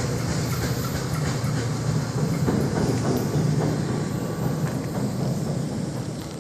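Passenger train running on its rails: a steady low rumble with faint clicking from the wheels.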